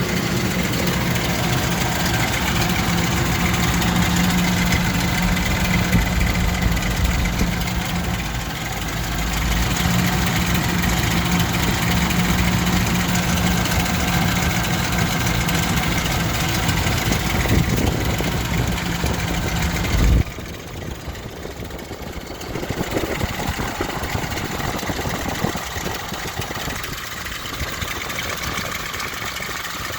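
2000 Ford Expedition's 4.6-litre V8 idling steadily, carrying a months-old mystery noise that the owner thinks comes from the belt area, perhaps the pulley tensioner. About two-thirds of the way through the sound suddenly drops quieter, and the engine goes on running more softly.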